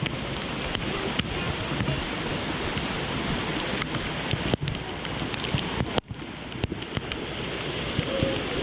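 Steady rush of falling water from a waterfall, a loud even hiss that drops out briefly twice, a little after the middle.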